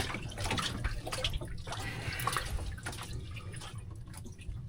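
Water dripping and splashing around a small fishing boat, with a few small knocks and clicks from handling.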